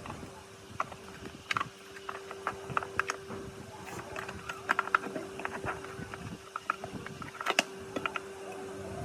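Irregular light clicks and taps of hand tools and small parts being handled, over a steady hum.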